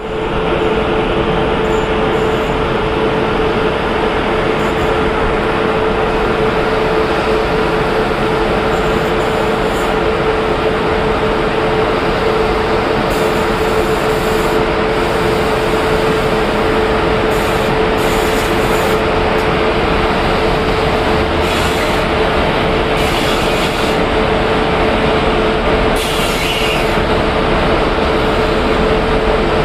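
Express train hauled by a WAP-7 electric locomotive: steady, loud train noise with one constant tone held throughout, and a few brief hisses from about 13 s on.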